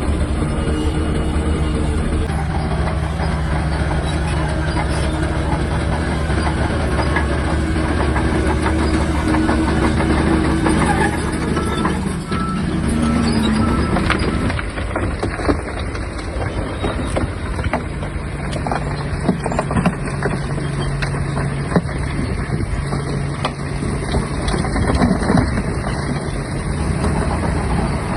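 Shantui DH17-C3 bulldozer's diesel engine running steadily while working, its note shifting about halfway through, with scattered clanks and knocks throughout.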